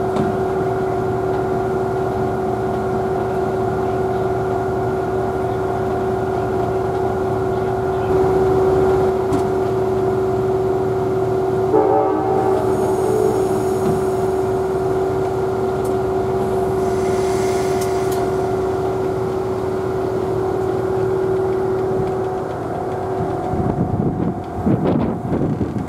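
Railroad train sounds: one steady pitched tone held for about twenty seconds over a low rumble, fading out near the end. Two short hissing patches come in the middle.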